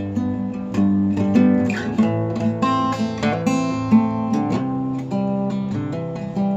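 Acoustic guitar strumming chords with several chord changes, recorded through a phone's microphone.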